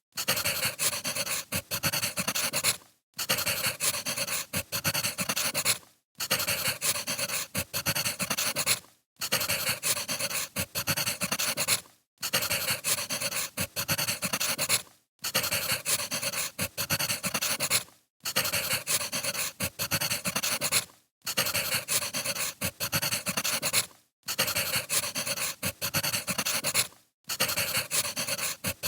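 Firewood burning with a dense crackle of small snaps and pops, cutting out briefly about every three seconds as the recording repeats.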